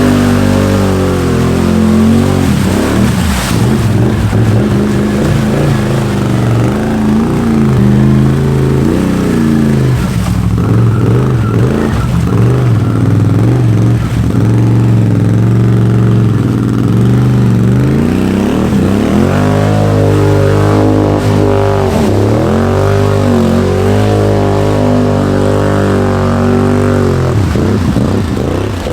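Can-Am Outlander XMR ATV's V-twin engine revving hard, its pitch rising and falling again and again as the throttle is worked, with a few sharp knocks along the way.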